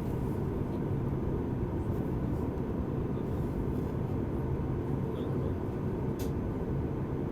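Steady low cabin rumble inside a Boeing 737 MAX 8 taxiing after landing, from its CFM LEAP-1B engines at idle, the air conditioning and the rolling wheels. A single short click sounds about six seconds in.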